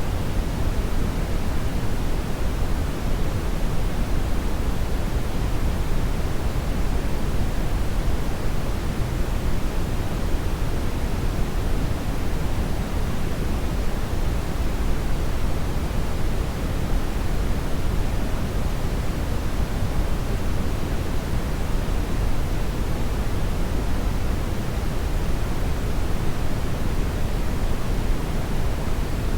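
Hair dryer running steadily: an even, unbroken rush of air, heaviest in the low end, with no change in speed or pitch.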